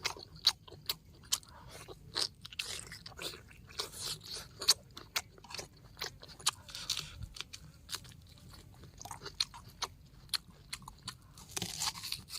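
A person chewing and biting crunchy food close to the microphone: irregular crisp crunches and clicks, a few every second.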